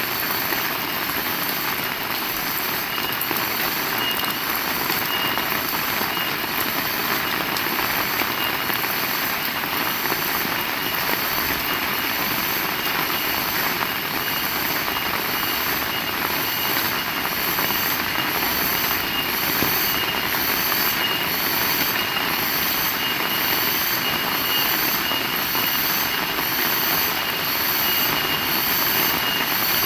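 Heavy rain falling steadily, with a high chirp repeating a little under once a second beneath it.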